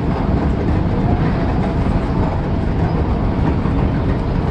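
Odakyu Line electric commuter train running along the line, heard from inside the front car: a steady rumble of the wheels on the rails.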